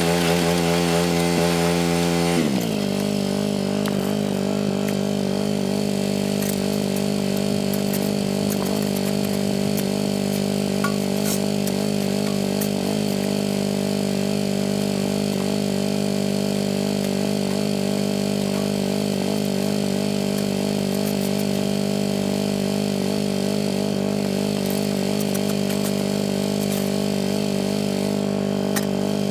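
John Deere 185 lawn tractor's 17-horsepower Kawasaki engine running steadily while driving a single-stage snowblower. The engine speed drops sharply about two and a half seconds in, then holds at the lower, even speed.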